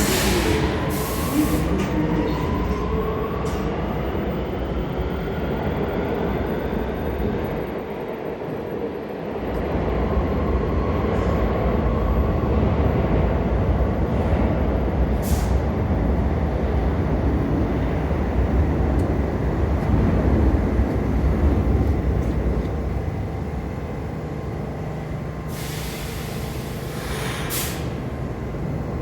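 R46 subway train running on the track, its motors whining up in pitch over the first few seconds. Short bursts of high-pitched noise come about a second in, midway and near the end.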